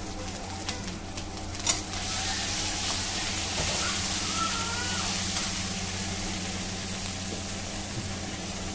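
Tomatoes and masala sizzling in hot oil in an aluminium kadhai. The sizzle swells right after a sharp knock about two seconds in, then holds steady.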